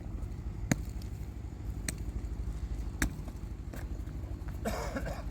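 An engine running steadily with a low, fast-pulsing rumble. A few sharp clicks sound over it, and there is a short scraping noise near the end.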